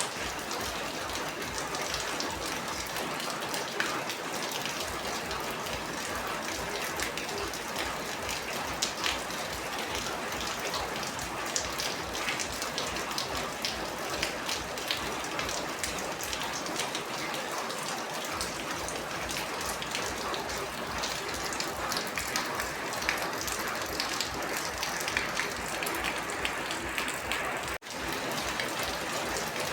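Steady rain falling, with many separate drop hits through an even hiss. The sound cuts out for an instant near the end and comes straight back.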